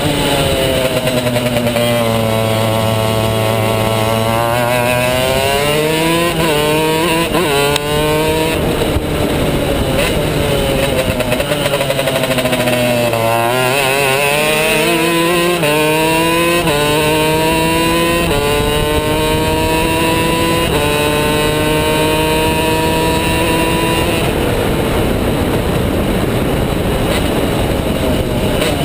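Two-stroke superkart engine at racing speed. Its pitch drops as it slows into a corner, then climbs through a run of gear changes, drops again around the middle, and climbs through several more shifts before holding high near the end.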